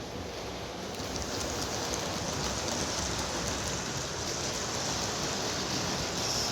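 Several OO-gauge model trains running round the layout's track loops: a steady rattling hiss of small wheels on rails and little electric motors, with faint ticks, a little louder from about a second in.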